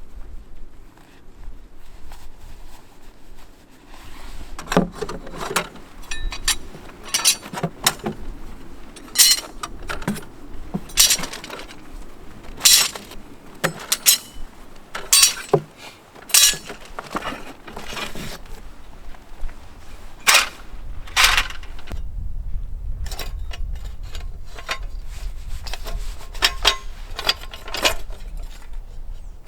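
A series of sharp clinks and knocks of hard objects striking together, irregular, roughly one a second.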